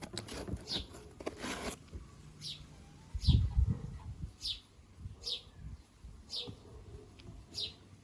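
A small bird chirping over and over, one short falling chirp about once a second. A low thump about three seconds in is the loudest sound, with some clicking and rustling in the first two seconds.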